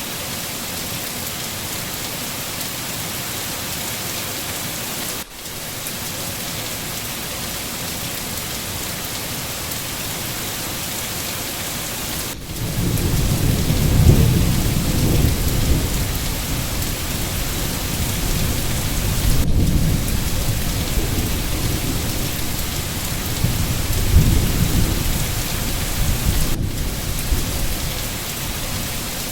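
Steady rain hiss. About twelve seconds in, a long low rumble of thunder rolls in, swells twice, and fades shortly before the end.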